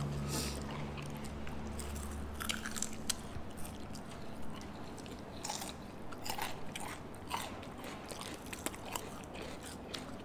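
Close-miked biting and chewing of crunchy food, with irregular crisp crunches.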